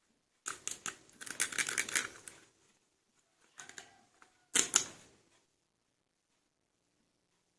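Hard plastic toy figures being handled: a quick run of clicks and clatter, a few more clicks, then two sharp knocks as a piece is set down.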